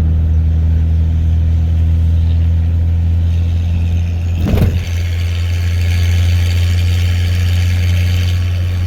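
Ford 4.9-liter (300) straight-six in a 1995 F-150, running through a straight-piped 2.5-inch exhaust with no muffler: a loud, steady, deep exhaust drone. About four and a half seconds in there is a brief knock, after which the note carries a harsher upper edge.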